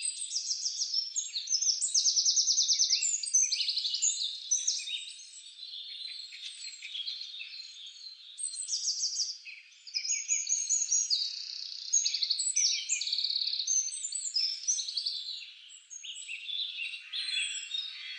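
Songbirds singing: a dense, continuous stream of overlapping high chirps, whistles and fast trills, with the loudest trilled phrases a couple of seconds in and again around the middle.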